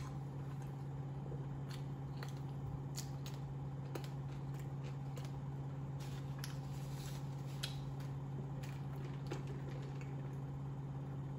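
Faint chewing and mouth noises while eating a burger, with scattered small clicks and light rustles of the paper wrapper, over a steady low hum.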